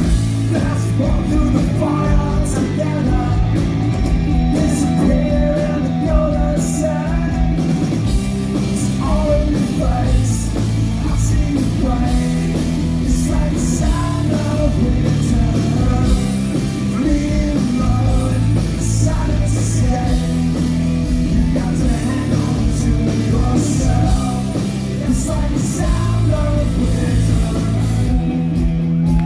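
Live rock band playing: distorted electric guitars, bass and drums with cymbal crashes, under a male lead vocal singing the melody.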